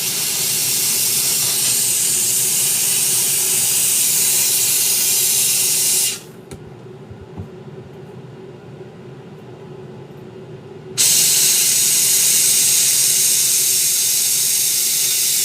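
Heat gun blowing with a steady hiss and motor hum, softening old sole glue so the shoe can be taken apart. It is switched off abruptly about six seconds in and back on about five seconds later.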